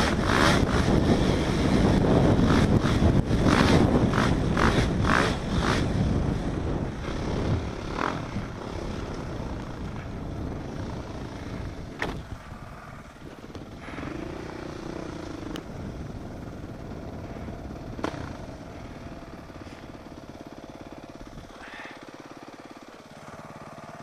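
A motor vehicle running close by, loud and pulsing for the first several seconds, then fading steadily as it moves off, with a few sharp knocks later on.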